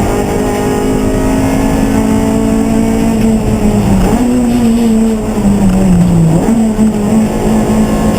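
Race car engine running hard at a steady high pitch, which sags as it slows about five seconds in and then jumps back up as it accelerates again.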